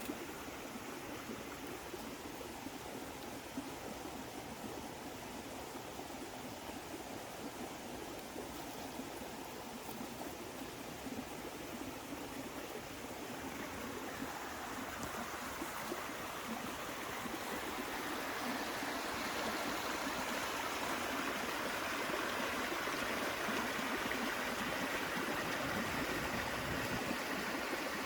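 Water flowing in a stream: a steady rushing and gurgling that grows louder a little past the middle.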